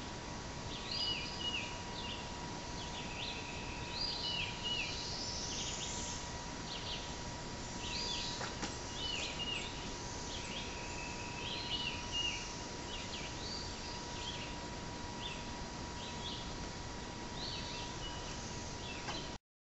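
A songbird singing short chirpy phrases over and over, about one every one to two seconds, over a steady outdoor background hiss with a faint steady tone underneath. The sound cuts off suddenly near the end.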